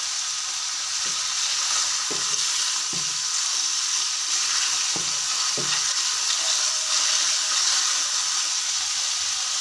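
Raw chicken pieces and sliced onion sizzling steadily in hot oil in a nonstick wok as the chicken lets out its water. A wooden spatula stirs them, knocking against the pan about five times.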